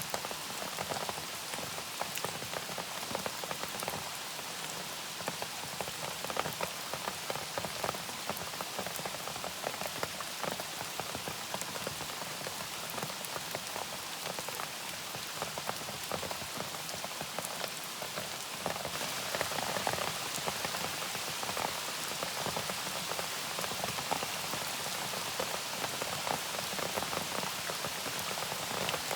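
Steady rain falling, with many separate drop hits over an even hiss; it gets a little louder about two-thirds of the way through.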